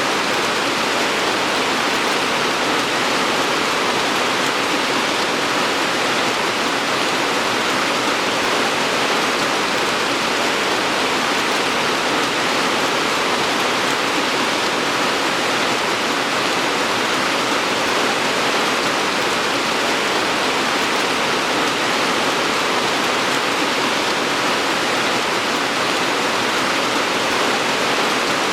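Steady, even rain. It is a dense hiss with no separate drops standing out, and it holds at the same level throughout.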